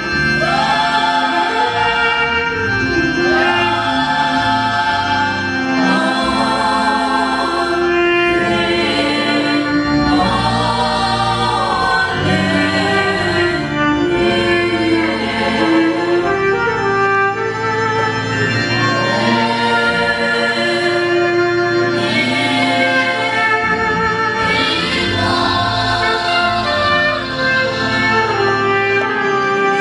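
A choir singing a gospel song with instrumental accompaniment, phrase after phrase at a steady loudness.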